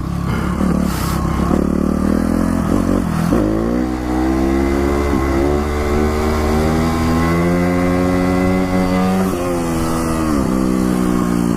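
Dirt bike engine running and revving: the pitch drops and then climbs about three seconds in, holds high, and dips briefly a few more times as the throttle is blipped.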